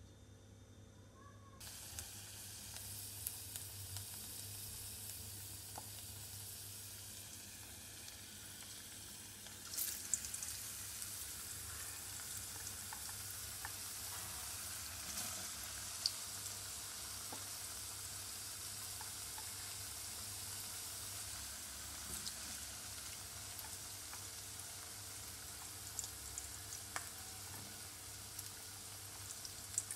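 Food frying in hot oil in an aluminium pot: a steady sizzle that starts suddenly about two seconds in and grows louder about ten seconds in, with scattered crackles and pops.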